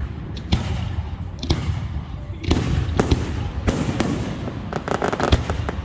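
Fireworks going off: a series of sharp bangs, roughly one a second, each followed by a low rumbling echo, with a quick run of crackling pops near the end.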